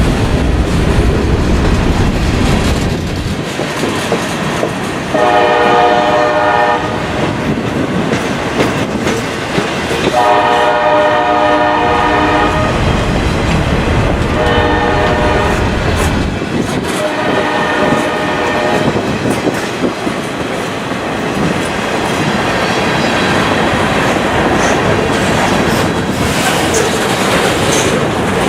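Freight locomotive horn sounding four blasts over the rumble and wheel clatter of a passing freight train; the second blast is the longest. The pattern is a grade-crossing signal.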